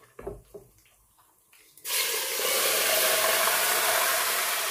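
Marinated chicken going into hot oil: a few light clicks, then a loud, steady sizzle that starts suddenly about two seconds in as the chicken hits the oil.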